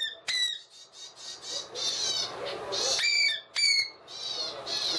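Young ringneck × Alexandrine parakeet hybrid chick giving a string of harsh, raspy squawks, the repeated begging calls of a hand-fed baby parrot.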